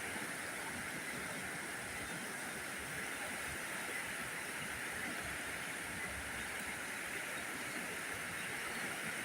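Floodwater rushing steadily, an even, unbroken roar of water.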